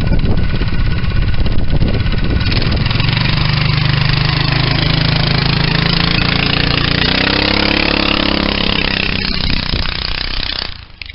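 Go-kart's 11 hp small engine running loud and steady, its pitch shifting and rising a little past the middle, then stopping suddenly near the end.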